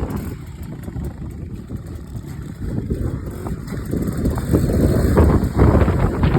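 Beta RR off-road motorcycle being ridden, its engine mixed with heavy wind rumble on the microphone, getting louder about halfway through.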